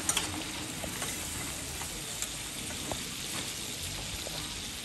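Dried buffalo meat (sukuti) with tomatoes sizzling steadily in hot oil in a metal frying pan. A spatula clicks against the pan right at the start, with a few faint ticks as it stirs.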